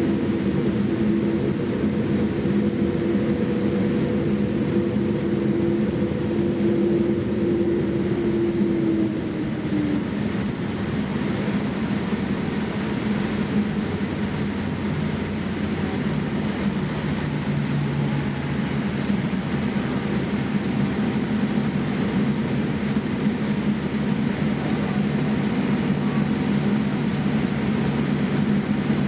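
Boeing 787-8 cabin noise: a steady rush of airflow and engine noise with a low hum. A higher tone in the hum fades out about nine seconds in, and the overall level dips slightly then.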